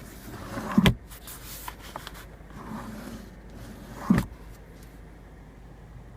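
Two sharp clunks of a car's interior compartment lid being worked, about three seconds apart, with light rustling of handling between them.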